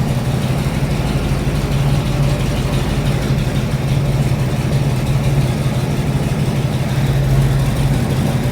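Car engine idling steadily, its ignition timing just set to about 10 degrees at idle.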